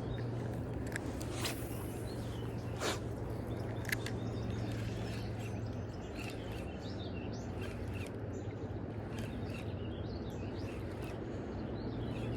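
Steady rush of river water with small birds chirping, the chirps mostly in the second half, and a few sharp clicks in the first four seconds.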